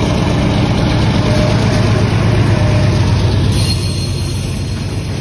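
GE B40-8 diesel-electric locomotive passing close by, its 16-cylinder engine loudest about two to three seconds in and then fading as the covered hopper cars behind it roll past.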